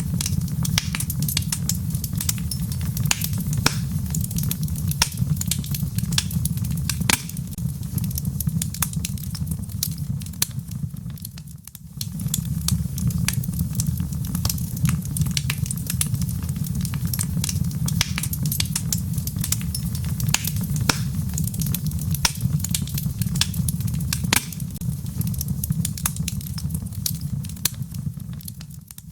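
Wood fire crackling, with many sharp snaps over a steady low rumble, and rain falling. The sound dips briefly about twelve seconds in.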